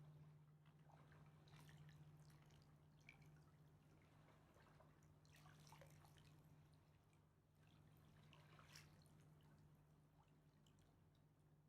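Very faint river water lapping, with scattered small drips and splashes at irregular moments, over a steady low hum.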